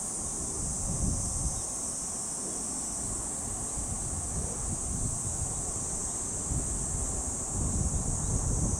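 A steady, high insect chorus, with wind buffeting the microphone in irregular gusts of low rumble, a little stronger near the end.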